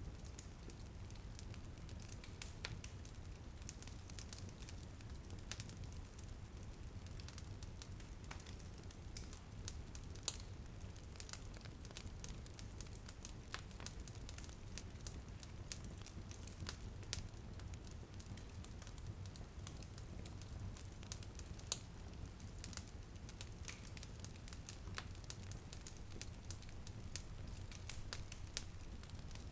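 Wood fire crackling in a fireplace: irregular sharp pops and snaps over a steady low rumble of the flames, with a faint hiss of light rain.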